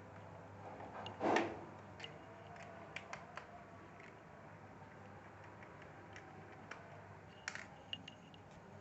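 Light clicks and taps of a screwdriver and small screws being handled on a laptop's plastic casing during reassembly, with one louder knock about a second and a half in.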